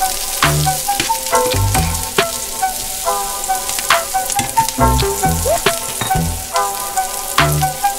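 Sliced king oyster mushrooms and onions sizzling in oil in a nonstick frying pan, with metal tongs clicking against the pan as they are stirred, over background music with a steady bass beat.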